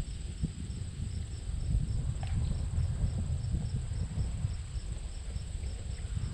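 Insects, likely crickets, trilling steadily in a high, even pulsing chorus, over a low irregular rumble such as wind on the microphone.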